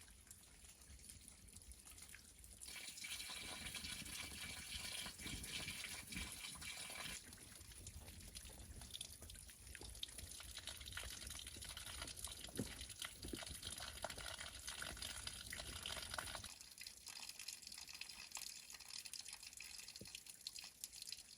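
Faint running and dripping water. It gets heavier about three seconds in and eases off after about sixteen seconds.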